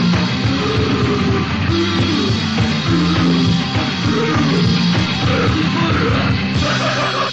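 Loud crust punk played by a full band: distorted guitar, bass and fast drums, cutting off abruptly at the very end as the song finishes.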